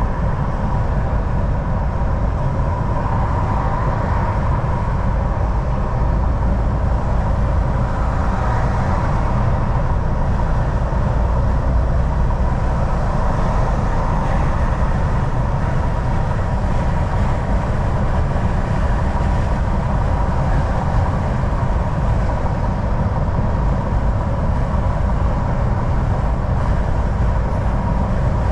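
Cab of a Volvo VNL 760 semi truck cruising on the highway: steady engine drone and road and tyre rumble, deep and even, with a faint steady whine above it.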